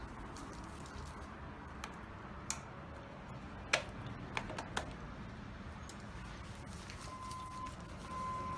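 A handful of scattered light clicks and knocks, the sound of hands working the plastic parts of a Mytek electric fan during reassembly. Near the end a thin steady high tone comes in and breaks off briefly.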